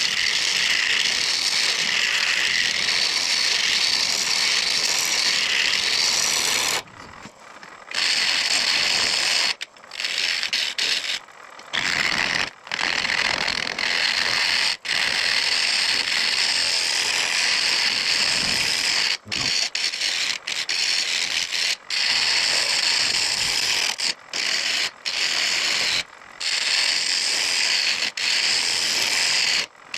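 Turning gouge cutting a spinning mesquite bowl blank on a wood lathe: a steady, hissing cut broken again and again by brief gaps as the tool comes off the wood.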